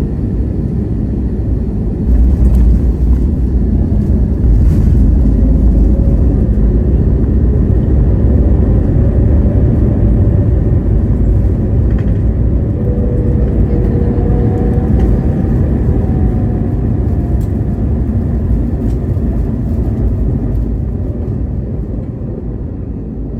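Airbus A321neo landing roll heard from inside the cabin: a sudden surge of loud rumble about two seconds in, then steady engine and runway noise with tones gliding in pitch near the middle, easing off as the jet slows.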